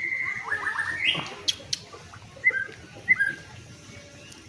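White-rumped shama (murai batu) singing in whistled phrases: a long held whistle that ends about half a second in, a quick run of rising notes sweeping upward, two sharp clicks, then two short falling chirps.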